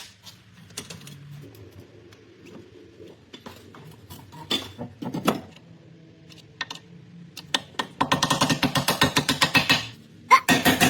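Workshop tools at work: scattered clicks and knocks, then from about eight seconds a fast, even mechanical rattle of several strikes a second that stops briefly near the end and starts again.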